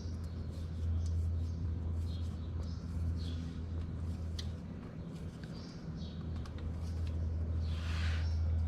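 A steady low hum, with faint scattered clicks and scrapes of a wrench retightening the oil drain plug, and a short rustle near the end.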